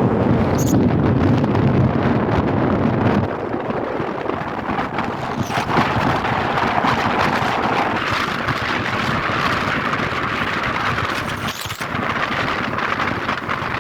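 Wind rushing over the microphone along with road and traffic noise while moving along a highway. A heavy low rumble drops away about three seconds in, leaving a steadier hiss.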